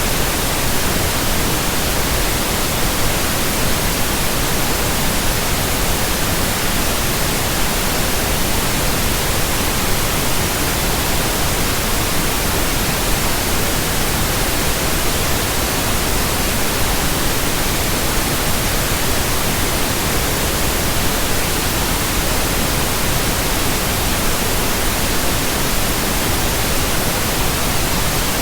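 Steady synthetic pink noise: an even, unchanging hiss spread across all frequencies.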